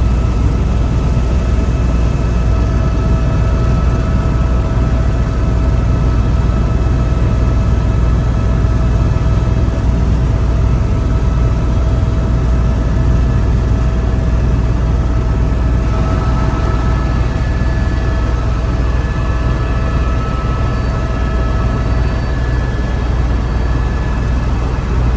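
Helicopter noise heard from inside the cabin in flight: a loud, steady low drone with a thin, steady whine above it.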